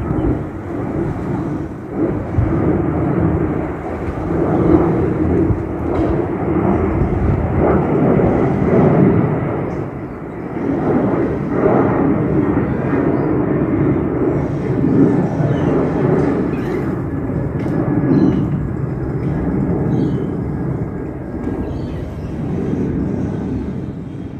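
Boeing 737 twin-engine jet climbing out after takeoff and passing overhead: a loud, steady jet roar that swells and eases and begins to fade near the end.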